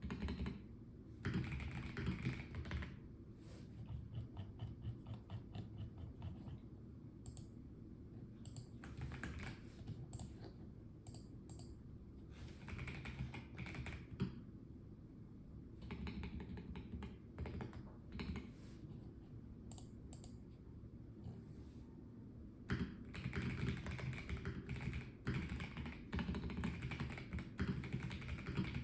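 Typing on a Melgeek Mojo84 plastic-case mechanical keyboard, in runs of rapid keystrokes broken by short pauses with only a few scattered key presses.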